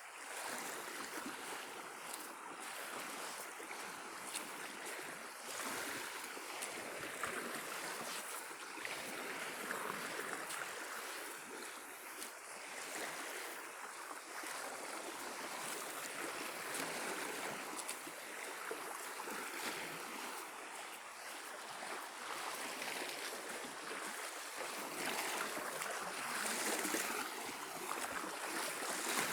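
Small waves of the Sea of Azov washing onto the shore, a steady hiss of surf that swells and eases every few seconds.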